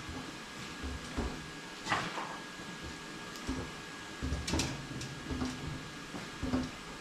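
Scattered knocks and clunks, the loudest about two seconds in and again about four and a half seconds in, from jacks and hardwood boards being worked under a power hammer to lift it off its skid. A faint steady high hum sits underneath.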